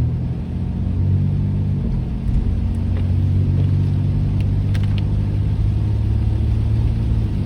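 Car engine and road noise heard from inside the cabin while driving: a steady low hum that shifts a little about two seconds in, then holds even.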